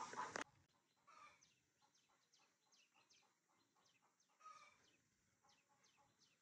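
Mostly near silence with faint small birds chirping: many short, high, falling chirps, a couple a second. A louder burst of chicken clucking cuts off suddenly about half a second in.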